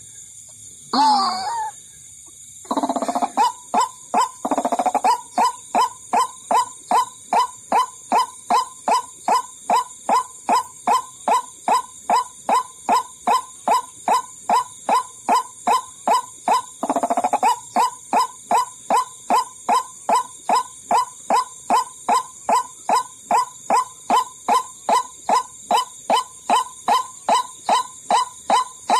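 White-breasted waterhen (ruak-ruak) calling: two rough calls, then a long, monotonous run of short 'kwak' notes, about two a second, played as a lure call to draw waterhens in.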